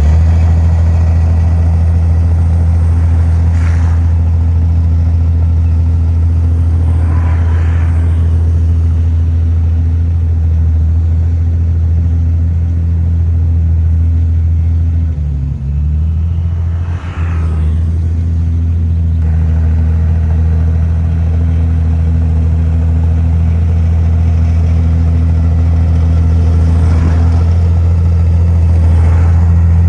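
Komatsu bulldozer's diesel engine running steadily under load as it pushes soil, a deep constant drone. Its note dips and wavers briefly about halfway through, then settles again.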